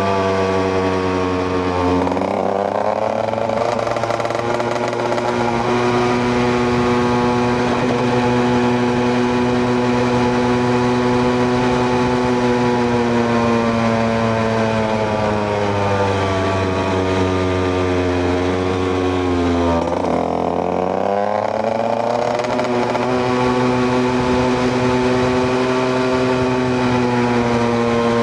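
KTM EXC 125's single-cylinder two-stroke engine running under way. Its note drops sharply about two seconds in and holds steady, sags slowly later, then dips and climbs again near the twenty-second mark.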